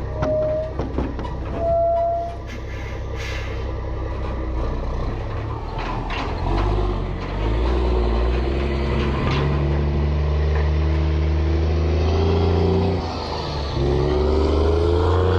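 Mack semi truck's diesel engine running while the truck drives, with two short squeals near the start. Near the end the engine pitch drops and then climbs again, as at a gear change.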